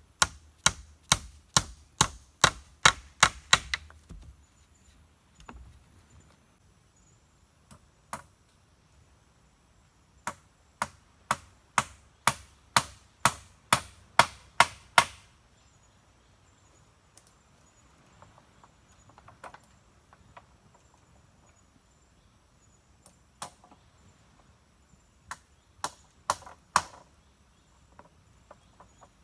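Wood being chopped with a blade: runs of sharp strikes, about three a second, near the start and again about halfway through, with a few scattered strikes near the end.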